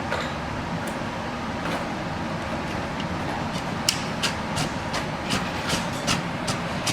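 Steady background noise, then from about halfway through a run of about eight sharp clicks or taps, two to three a second.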